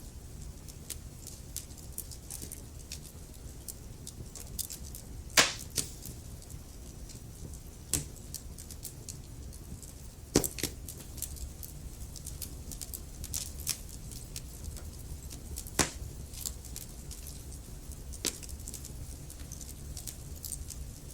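Logs burning in a fireplace, crackling steadily with irregular sharp pops over a low, steady rumble of flame; several louder snaps stand out, the loudest about five and ten seconds in.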